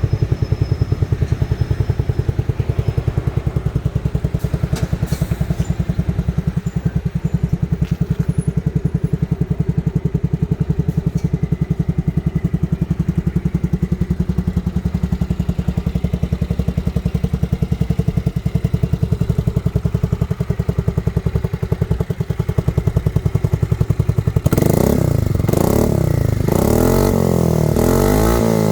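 Yamaha Majesty C SG03J scooter's single-cylinder engine through an aftermarket Supertrapp exhaust, idling with an even, steady exhaust beat. Near the end the throttle is blipped repeatedly, the engine revving up and down.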